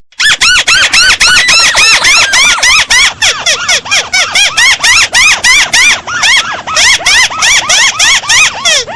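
Crake (burung tikusan) lure call: a rapid, repeated series of sharp, arched squealing notes, about four a second, with a brief pause about six seconds in.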